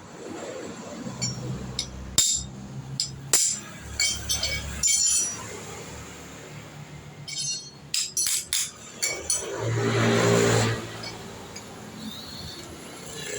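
Metal tools and parts clinking and knocking as a motorcycle shock absorber is worked on, in a dozen or so sharp separate strikes. About ten seconds in there is a louder hum with a hiss lasting about a second.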